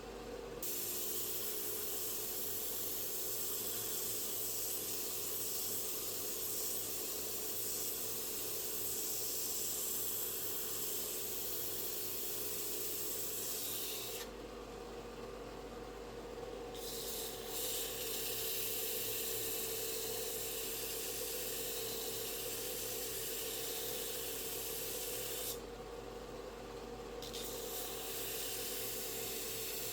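A steady spraying hiss in long passes that stops twice for a couple of seconds, over a steady low hum.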